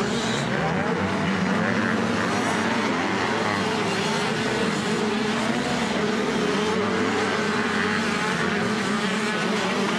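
Several 85 cc-class motocross bikes racing, their engines running at high revs in a continuous, overlapping whine that wavers slightly in pitch.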